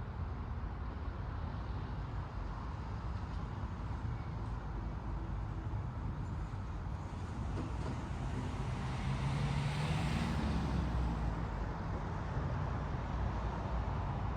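A car passes by over a steady low rumble of road and outdoor noise; its sound swells to a peak about two-thirds of the way through, then fades.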